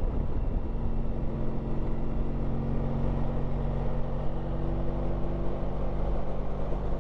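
Honda ST1300 Pan European's V4 engine running while riding, its note holding a steady pitch.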